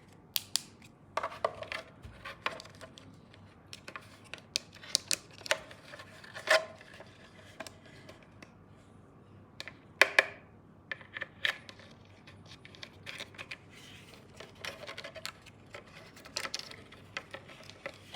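Hard plastic toy tool pieces being handled: irregular clicks, taps and light scrapes, with a louder knock about six and a half seconds in and another about ten seconds in.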